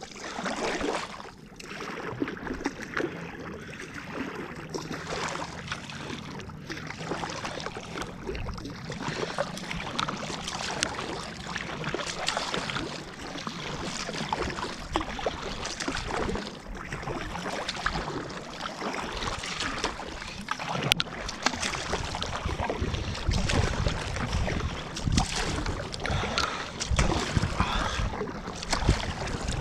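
Water splashing and lapping around a moving kayak, with wind rumbling on the microphone, heavier in the last third.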